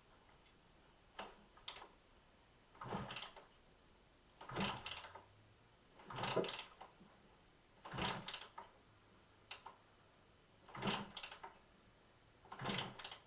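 A 1996 Kawasaki KX80's 80cc two-stroke engine being kick-started over and over, about a kick every one and a half to two seconds, each a short clunk of the kick lever and the engine turning over without firing. It won't catch because the fuel tank is empty.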